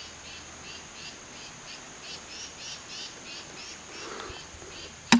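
Crickets chirping in a steady rhythm, about three chirps a second, over a continuous high insect trill. A single sharp click near the end is the loudest sound.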